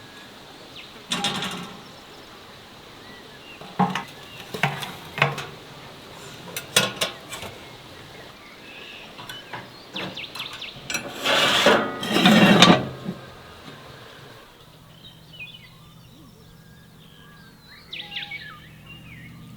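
Knocks, clinks and scrapes of dishes and kitchen utensils being handled, coming as a string of separate strokes. The loudest and longest scraping is about eleven to thirteen seconds in, and it goes quieter after that.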